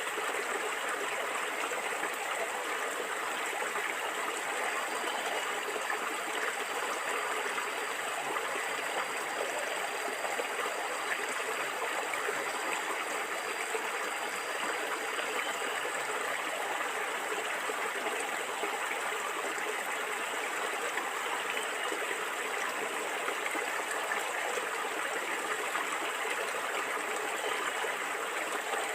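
Stream water flowing and gurgling steadily over stones.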